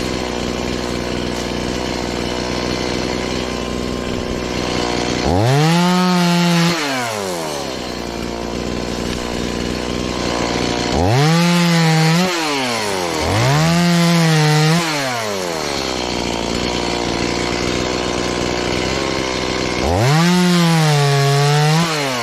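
Stihl MS180, a lightweight 31.8 cc two-stroke chainsaw, idling and then revved to full throttle four times as it cuts through limbs. Each burst rises quickly, holds for a second or two and drops back to idle; the last one sags slightly in pitch under load.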